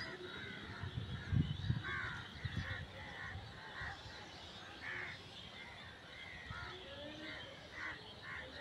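Birds calling outdoors: a run of short calls repeated every half second or so, with a few low thumps in the first two seconds.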